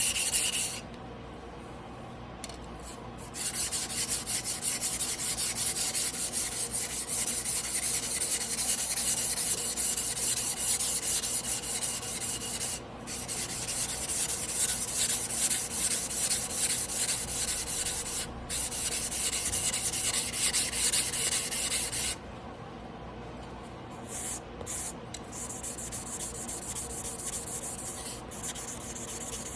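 Tojiro Damascus carbon-steel yanagiba blade being hand-sharpened on a whetstone: steady, rapid back-and-forth grinding strokes. They stop for a couple of seconds near the start and again about three-quarters of the way through, then resume more softly.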